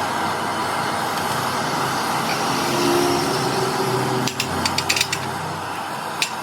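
Steady mechanical running noise, with a quick run of sharp clicks about four seconds in and one more click near the end.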